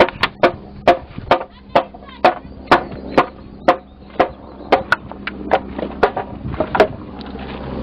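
A series of sharp knocks or blows, about two a second, each with a short ringing note. They stop shortly before the end.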